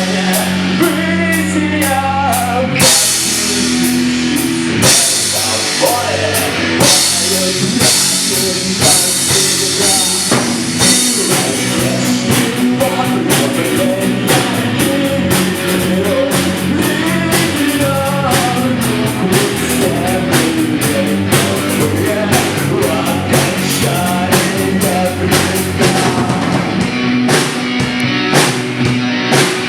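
A rock band playing live, with a driving drum kit and electric guitar and no vocals heard.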